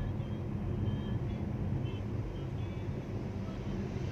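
Steady low rumble of a vehicle engine running, with a few short, faint high squeaks over it.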